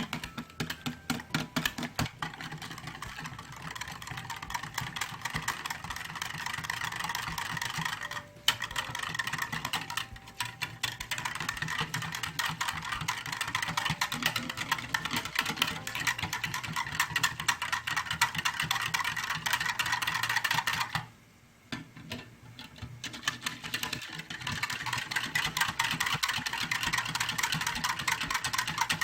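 Close-miked eating of noodles: wet slurping and chewing that goes on almost without a break. It stops briefly twice and pauses for about a second about two-thirds of the way through.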